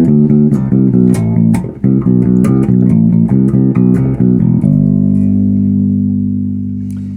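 Zoot Wal-style passive electric bass with multi-coil pickups, played through a Markbass head and a 1x12 cabinet with both pickups on full and the bridge pickup wired in parallel. A quick run of plucked notes, then about four and a half seconds in a held note left ringing and slowly fading.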